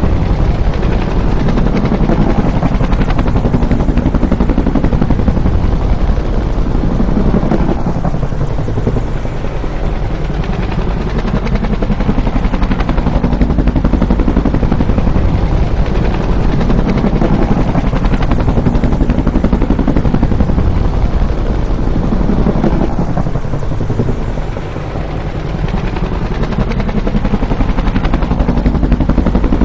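Bell UH-1 "Huey" helicopter, its two-blade main rotor chopping steadily and loudly. The sound swells and eases every few seconds and dips briefly twice.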